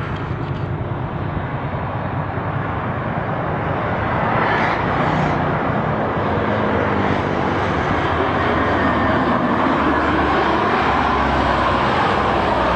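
Steady roar of a passing vehicle, swelling louder about four seconds in and then holding.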